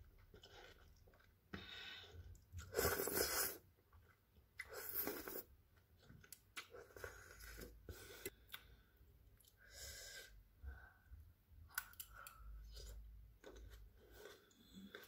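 Close-up eating sounds: instant fried noodles with bell pepper being slurped and chewed, with crunchy bites. Several louder noisy bursts come about 3 and 5 seconds in.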